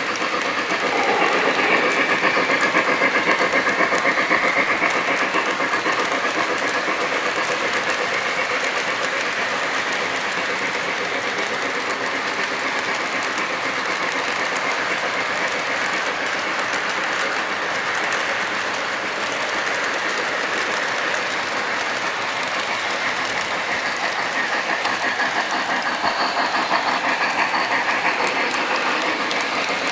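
Lionel LionChief Pere Marquette 1225 O-gauge model steam locomotive running on track, with a steady rapid clatter from its wheels and rails.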